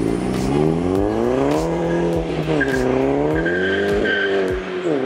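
Volkswagen Golf GTI's turbocharged 2.0 TFSI four-cylinder accelerating hard and revving up through the gears. The pitch drops sharply at an upshift about two seconds in and again near the end.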